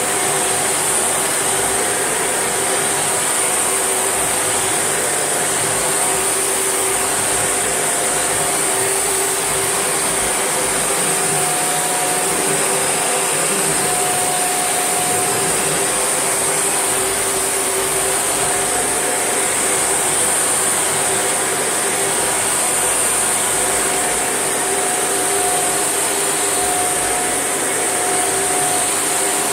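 Shark NV801UK upright vacuum cleaner running steadily: a constant motor whine under a high rushing hiss of air, with no change in speed.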